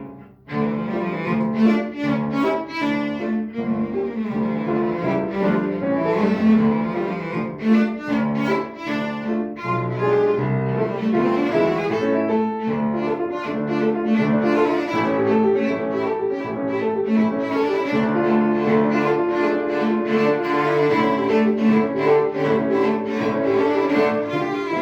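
Cello playing a quick run of short notes with piano accompaniment. The sound breaks off for a moment about half a second in, then runs on without pause.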